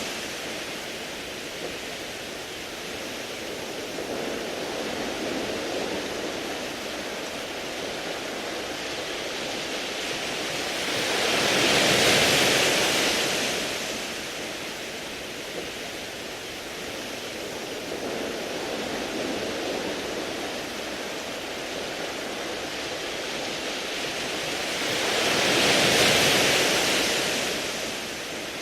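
Waves washing over a beach of round pebbles: a steady hiss of surf, with a wave surging up louder about twelve seconds in and again near the end, each swelling and fading over a few seconds.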